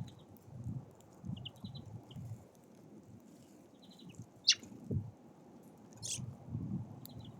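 Small songbirds at a feeder giving brief clusters of high chirps, over a low uneven rumble. A single sharp knock about four and a half seconds in is the loudest sound.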